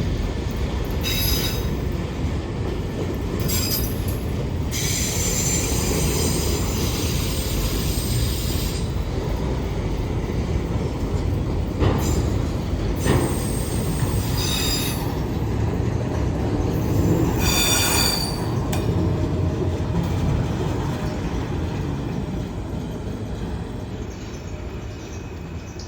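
Freight train cars rolling past on the grade: a steady rumble of wheels on rail, with high-pitched wheel squeal coming and going several times, one stretch lasting a few seconds. Two sharp knocks come about halfway through, and the sound fades near the end.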